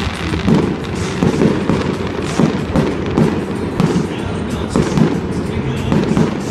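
Aerial fireworks going off in a rapid string of bangs and crackles, about two a second.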